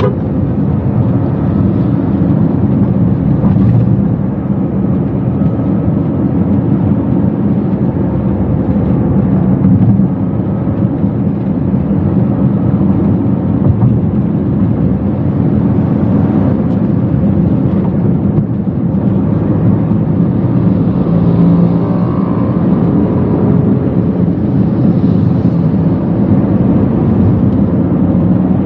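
Toyota Wigo's engine and road rumble heard from inside the car's cabin while driving, a steady low drone.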